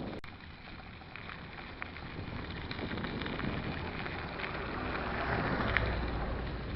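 Riding noise of a Stels mountain bike on an unpaved track, with wind on the microphone: a steady noisy rush full of small clicks and rattles, swelling about five seconds in.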